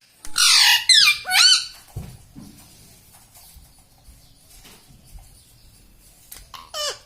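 Pet Indian ringneck parrot giving a quick run of loud, shrill squawks in the first two seconds, then a few short calls near the end.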